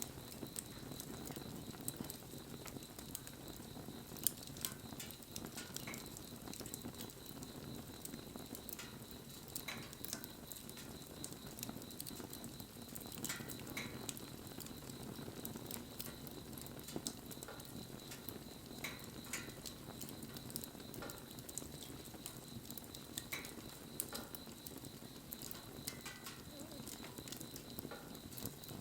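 Wood fire burning, with irregular sharp crackles and pops over a steady low rush of flame.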